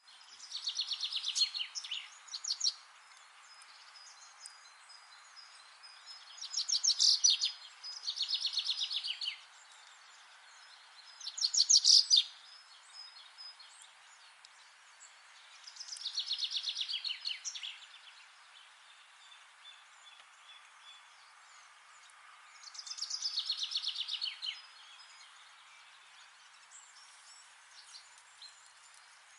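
Songbird singing short, rapid trilled phrases that fall in pitch, repeated every few seconds, over a steady faint background hiss.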